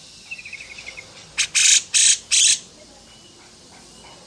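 Songbird calling: a quick high trill of about a dozen notes, then three loud, harsh rasping calls in quick succession about halfway through.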